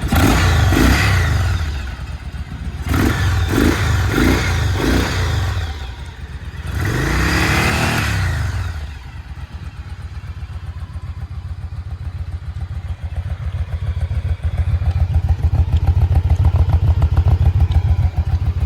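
Yamaha V-Star 1100 Custom's V-twin on its stock mufflers being revved: one rev at the start, a quick run of short throttle blips, a second rev, then settling to a steady, pulsing idle that grows louder near the end.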